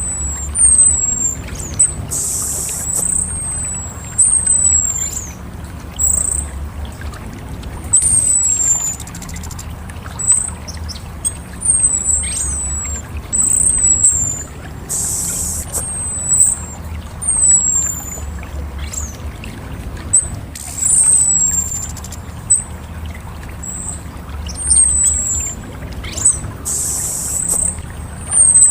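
Orange-headed thrush calling: a run of short, very high, thin notes that slide downward, about one a second, broken a few times by longer rough, hissing bursts in the same range, over a steady low hum.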